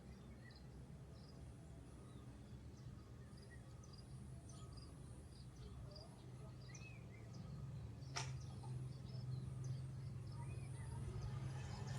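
Faint rural outdoor ambience: a steady low rumble with many short, scattered bird chirps and small insect-like calls over it, and one sharp click about eight seconds in.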